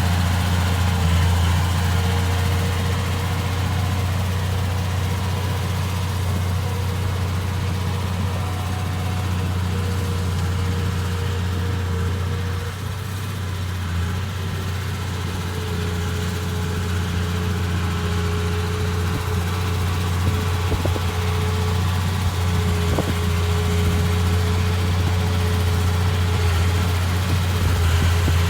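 Komatsu D31P bulldozer's diesel engine running steadily: a deep, even drone with a thin whine above it.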